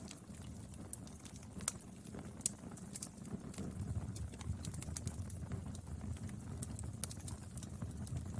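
Wood fire burning: irregular sharp crackles and pops over a low, steady rumble of the flames, with a few louder snaps.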